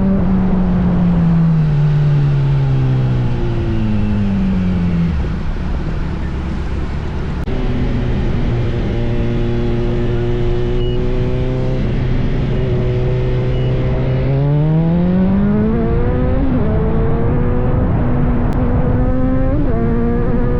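Motorcycle engine on the move: the revs fall over the first few seconds, hold steady and low for a while, then climb again about two-thirds of the way in and hold higher, with road and wind noise underneath.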